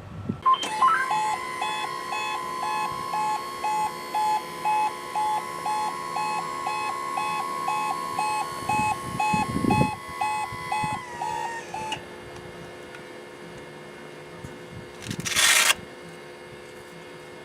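Electric hard suction rack on a fire truck running with its motor whining, while its warning beeper pulses about twice a second. Both stop together about two-thirds of the way in. A short hiss-like burst follows near the end.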